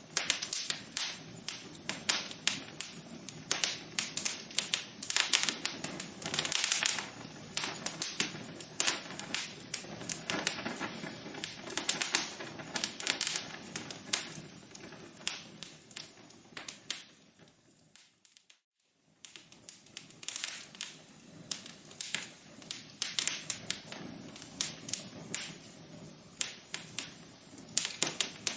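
Wood fire crackling in a fireplace: dense, irregular pops and snaps over a soft hiss. About two-thirds of the way through, the sound fades down to near silence for about a second, then fades back in.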